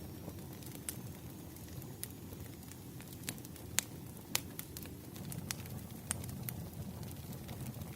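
Wood fire crackling: irregular sharp pops and snaps over a low steady rumble, with a couple of louder pops around the middle.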